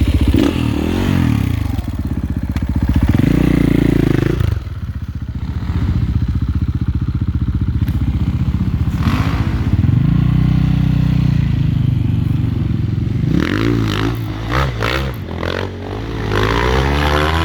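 Enduro dirt bike engine revving hard and easing off again and again as the rider works the throttle through mud, the pitch rising and falling. Near the end there is a brief patch of clattering knocks.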